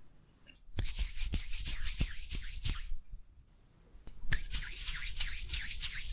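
Thick, sticky condensed-milk and cocoa-powder chocolate mixture being worked close to the microphone: two spells of crackly rubbing about two seconds long, with small clicks, and a short pause between them.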